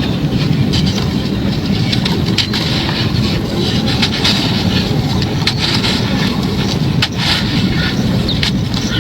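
Hard, dry moulded chunks of a cement-like mix being crushed by hand, crunching and crackling with several sharp breaks a second or more apart, over a steady low rumble.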